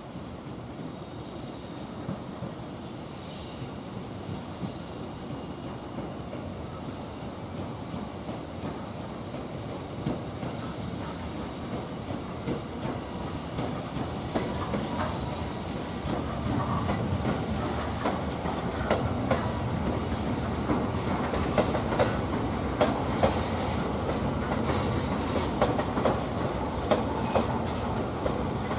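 JR East E231 series electric multiple-unit train running along the track and growing steadily louder as it approaches. A thin high squeal is heard in the first half. From about two-thirds of the way in, the wheels click sharply over the rail joints, ever more often.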